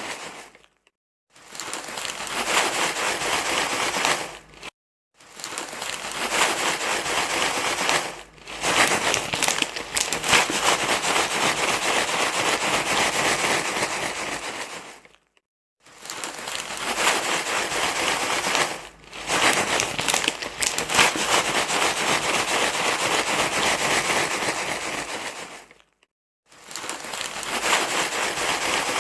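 Loud crinkling rustle, like something being crumpled and handled, running in stretches of several seconds with brief breaks of silence between them.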